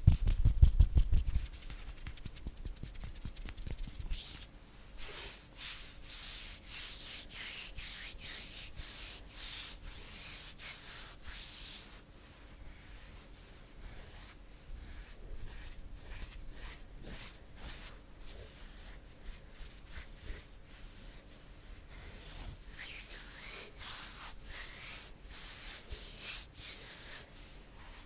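Bare hands rubbing and brushing together close to the microphone: a continuous skin swishing dotted with many small crackles. The first second or so holds a quick run of heavier pats.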